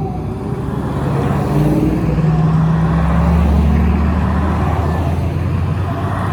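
Custom VIP-style sedan with an aftermarket exhaust driving past, its deep engine note steady in pitch and loudest in the middle.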